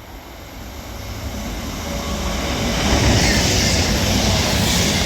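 CrossCountry Class 221 Voyager diesel multiple unit passing through the station at speed. The noise of its diesel engines and wheels on the rails builds over the first three seconds, then holds loud as the train runs past.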